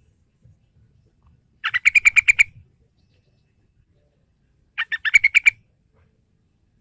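Sooty-headed bulbul (trucukan) calling: two short bursts of quick repeated chattering notes, about three seconds apart.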